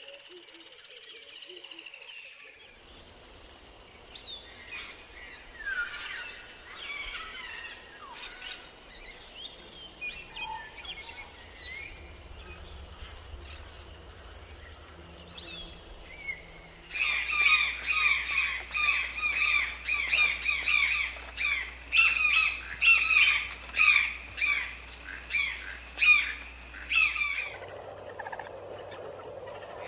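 Birds calling outdoors, with scattered chirps and whistles. About halfway through, a loud run of quick repeated calls sets in, two or three a second, and stops abruptly near the end, giving way to a steady low hum.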